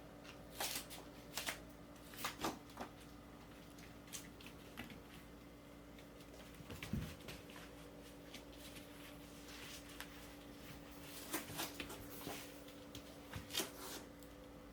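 Irregular soft rustles and light taps in scattered clusters, as kittens play with toys, over a steady low hum.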